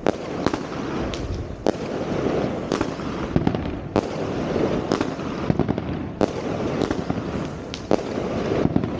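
Fireworks going off: a continuous crackling din with about a dozen loud, sharp bangs at irregular intervals, roughly one every half second to second.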